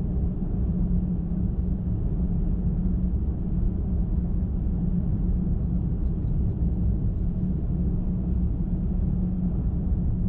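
A car driving at highway speed: steady rumble of tyres on the road and engine, with a constant low hum running underneath.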